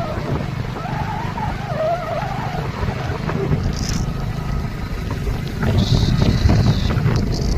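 Steady low rumble of a vehicle travelling along a road, with wind on the microphone. A short high-pitched hiss comes about four seconds in and a longer one about six seconds in.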